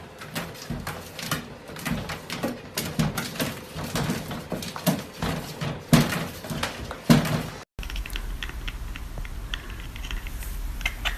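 A dog's short low sounds amid irregular clattering and knocking, then an abrupt cut to a steady low hum with faint ticks for the last few seconds.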